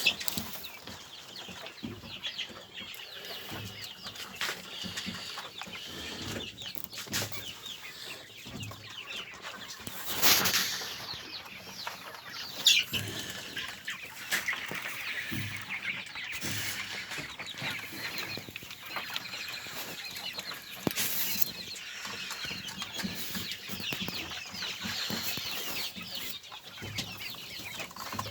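A flock of domestic poultry clucking and chirping, with a few louder sudden sounds about ten, thirteen and twenty-one seconds in.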